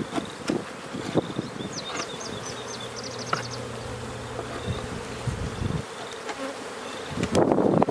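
Honey bees buzzing in a swarm around an open hive. One bee drones low and steady close by for a few seconds in the middle. Scattered light clicks and knocks run through it, growing louder and busier near the end.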